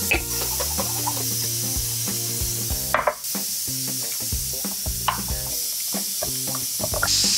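Food sizzling in a hot pan, with the knocks and scrapes of a utensil stirring it; the sizzle gets louder near the end.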